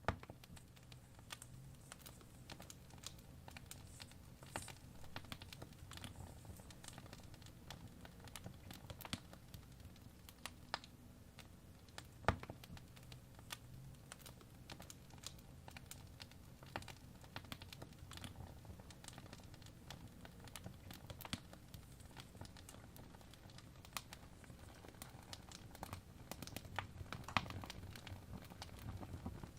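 Wood fire crackling in a fireplace: irregular small pops and clicks over a low rumble of flame, with one sharper pop about twelve seconds in.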